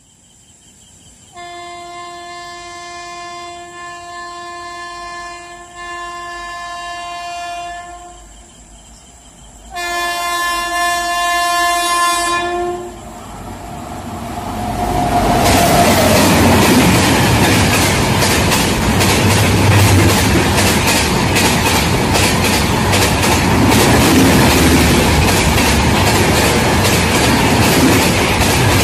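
Indian Railways WAP-7 electric locomotive sounding its horn in two long blasts as it approaches, the second shorter and louder. About halfway through, the express train starts rushing past at high speed, much louder than the horn, with rapid wheel clatter over the rail joints.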